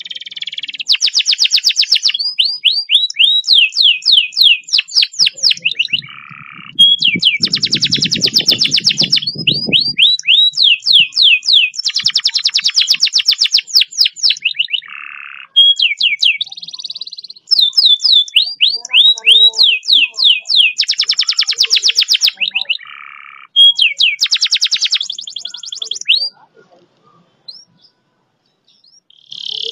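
Domestic canary singing long, fast rolled trills: runs of rapid, evenly repeated sweeping notes lasting a few seconds each, broken by short pauses and different phrases. The song stops a few seconds before the end.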